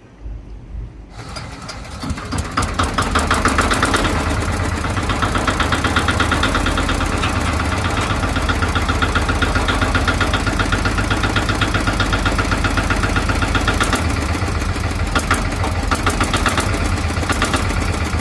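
Boat engine starting up: a few low thumps, then it catches about a second in, builds over the next two seconds and settles into steady running with a fast, even knock.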